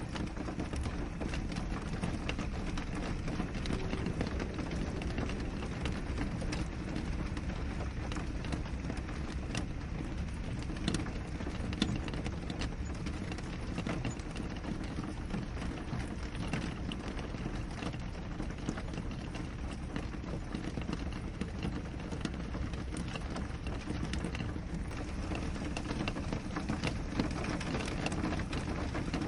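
Steady rain on a window pane: an even wash of falling rain with many scattered sharp drop ticks.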